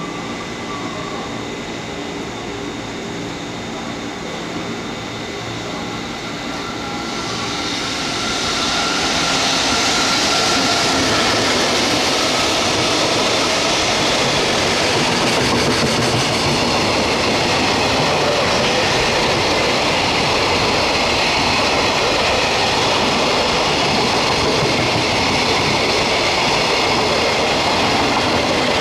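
Electric freight train: steady whining tones from the approaching locomotive, then about seven seconds in the loud rolling noise of the train passing close by swells up and continues.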